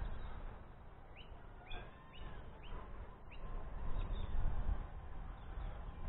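A bird calling in a quick series of about six short, falling chirps, over wind rumbling on the microphone.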